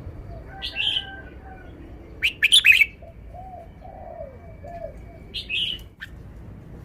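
Caged red-whiskered bulbul singing short, loud phrases of quick high notes, three bursts in all, the loudest a little after two seconds in.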